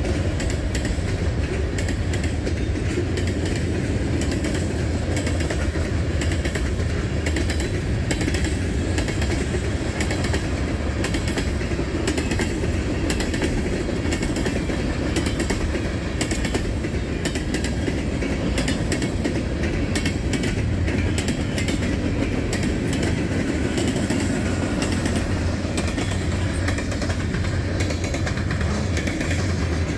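A mixed freight train's cars (lumber-loaded centerbeam flatcars, tank cars and covered hoppers) rolling past close by: a steady rumble of steel wheels on the rails with a constant run of clicks.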